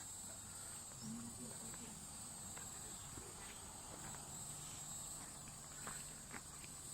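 Steady high-pitched insect drone from crickets or cicadas, with a few faint clicks and a faint low hum from about four seconds in.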